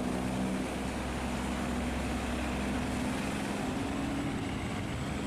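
Boat engines droning steadily over a wide rushing noise of fast-flowing water.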